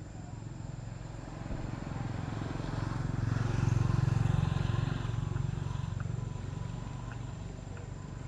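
A motor vehicle passing by: a low engine hum that swells to its loudest a few seconds in, then fades away.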